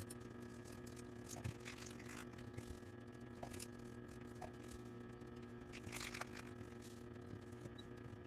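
Faint rustles, scrapes and a few light clicks of small craft materials being handled, over a steady low electrical hum.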